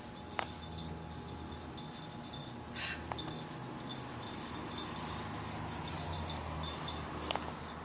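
High chime-like tones ringing briefly again and again, with three sharp clicks and a low steady hum underneath.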